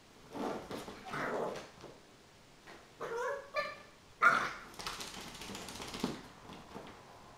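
Chinese Crested puppy giving two short high yips about three seconds in, then a sharper, louder bark just after four seconds, between bursts of scuffling noise.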